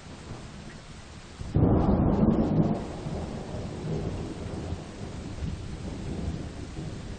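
Steady rain falling, broken about a second and a half in by a sudden loud clap of thunder that rolls on as a lower rumble to the end.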